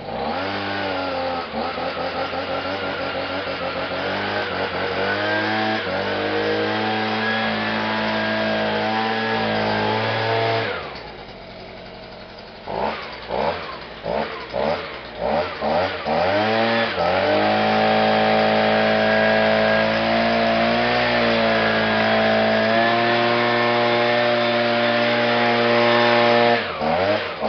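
Small two-stroke engine of a STIHL BG-55 handheld leaf blower running with its carburetor freshly adjusted richer. It runs at high speed, drops to idle about ten seconds in, is blipped several times, then held at full throttle for about ten seconds and blipped again near the end.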